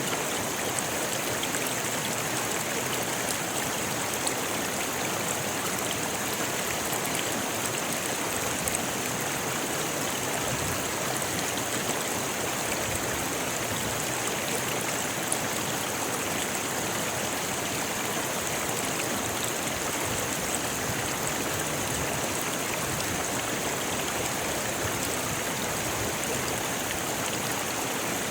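Rocky river flowing: a steady, unbroken rush of water over stones.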